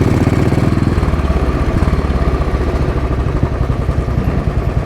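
Royal Enfield Bullet's single-cylinder four-stroke engine running at low road speed, a steady, even beat of firing pulses, a little louder in the first second before settling.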